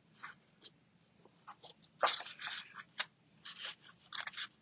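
Scissors cutting paper: a series of short, irregular snips, with one louder, longer noisy burst about two seconds in.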